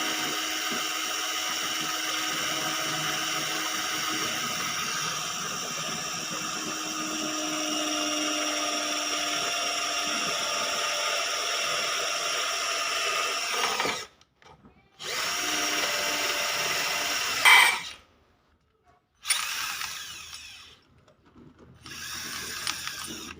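Electric drill running steadily for about fourteen seconds, then stopping and starting again in shorter runs.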